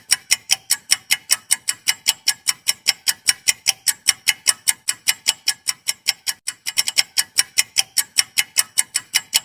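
Clock-like ticking sound effect of a quiz countdown timer: sharp, even ticks about five a second, briefly uneven about seven seconds in, cutting off suddenly at the end.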